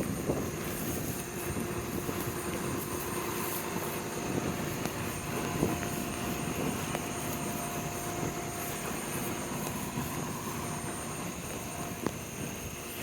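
A motor vehicle's engine running steadily, a low hum with a faint steady tone, under wind noise.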